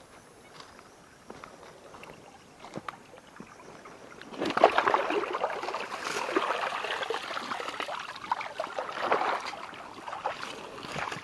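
Water sloshing and splashing for about six seconds, starting about four seconds in, after a few faint clicks.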